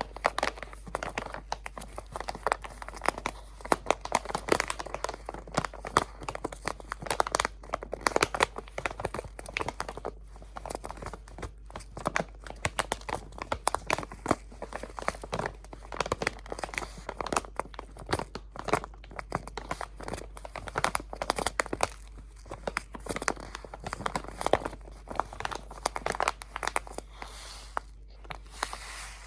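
Crinkly material crumpled and handled very close to the microphone: a dense, irregular run of crackles with brief lulls and frequent sharp peaks.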